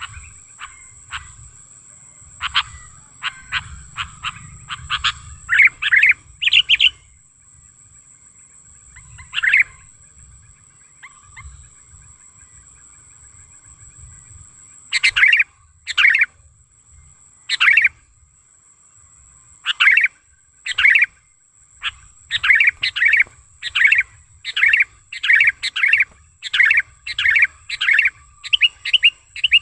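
Sooty-headed bulbul calling in short, bright notes. The notes come in scattered clusters at first, then in a fast, evenly repeated series over the last third. A faint, steady high whine runs underneath.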